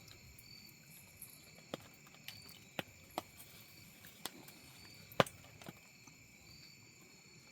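Crickets chirping steadily in the background, with a handful of sharp, scattered taps and clicks, the loudest about five seconds in.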